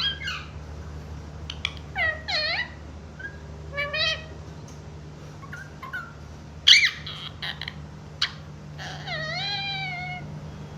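Indian ringneck parrot calling in a series of short, pitched, bending squawks, loudest about seven seconds in, with a longer falling call near the end. A few sharp clicks and a steady low hum lie underneath.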